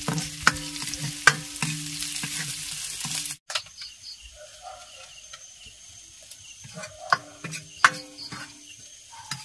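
Shallots, curry leaves and dried red chillies sizzling in hot oil in an iron kadai while a wooden spatula stirs and scrapes them: a tempering of mustard seeds in oil being finished. The sizzle drops away suddenly about three and a half seconds in, leaving quieter scattered scrapes of the spatula against the pan, with a few more stirring clicks near the end.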